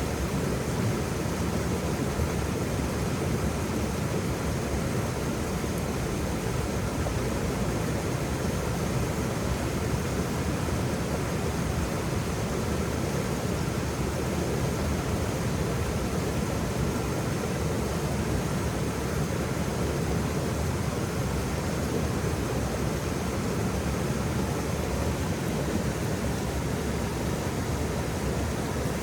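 Waterfall: a steady, unbroken rush of falling water, fullest in the low and middle range.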